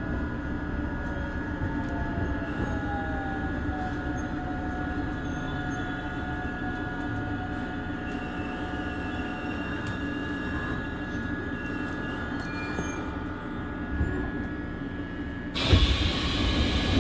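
Seoul Subway Line 1 electric train running, heard from inside the car: a steady rumble with a motor whine that falls in pitch over the first few seconds as the train slows for its stop. A sudden loud hiss comes in near the end.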